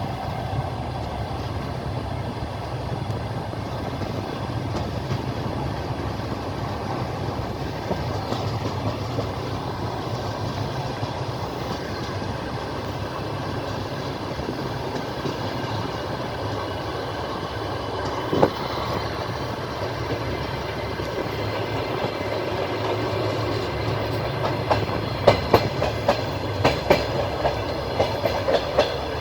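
Passenger train running on the rails, heard from the carriage window: a steady rumble of wheels and carriage, with a single wheel clack about 18 seconds in and a run of sharp clickety-clack over rail joints near the end.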